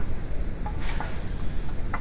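A few short metallic clicks from hand tools being handled on the engine, over a steady low background rumble.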